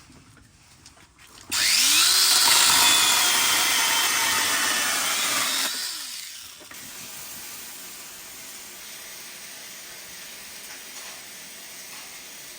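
Power saw cutting firewood: the motor spins up about a second and a half in, cuts loudly for about four seconds, then winds down, leaving a faint steady background.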